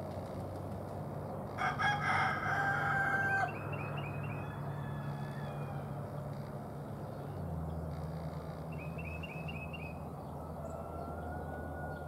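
A loud, harsh bird call with a rough, pulsed edge, lasting about two seconds, starts near two seconds in. Short bursts of quick high chirps from another bird come twice, over a steady low hum.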